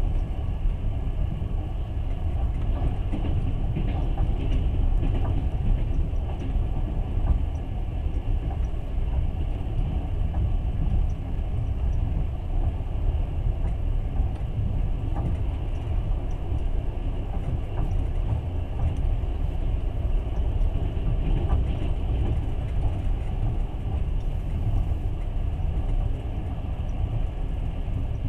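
Passenger train carriage running along the track, heard from inside the carriage: a steady low rumble of wheels on rails with a few faint ticks.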